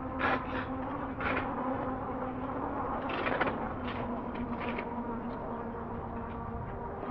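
Electric bike motor whining at a steady pitch, with a few short swells of tyre and wind noise over it.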